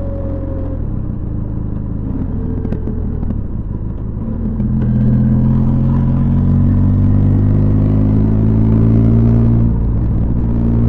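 Benelli TRK 502X's parallel-twin engine running through its stock exhaust. The exhaust note steps up about halfway through as the engine speed climbs slowly, then drops back near the end.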